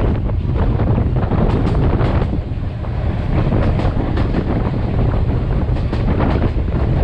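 Passenger train under way: a steady low rumble of wheels on the track, with wind buffeting the microphone and occasional sharp clicks.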